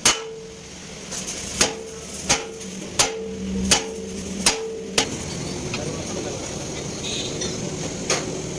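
Hammer striking metal: seven blows spaced less than a second apart, each leaving a short metallic ring, then a pause and a single further blow near the end.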